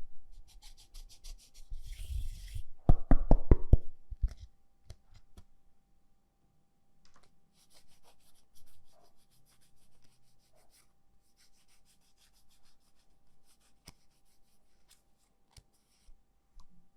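Small hard objects handled by hand: scattered clicks, taps and rubbing, with a louder rattling run of knocks about three seconds in.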